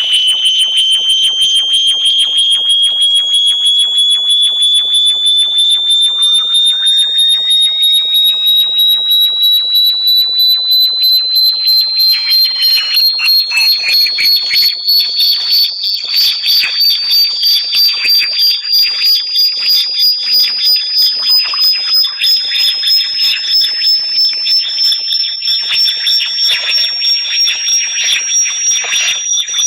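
Synthesized high-pitched electronic tone, played as a bat repellent, rising slowly and steadily in pitch while pulsing rapidly, with fainter higher whistling tones and sweeping glides above it.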